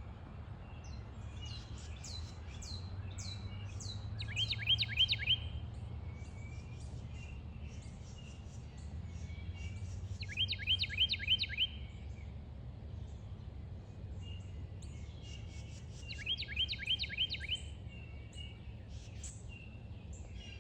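Birds singing: a phrase of five or six quick, sharply sloping notes repeated three times, about six seconds apart, with scattered high chirps between, over a steady low rumble.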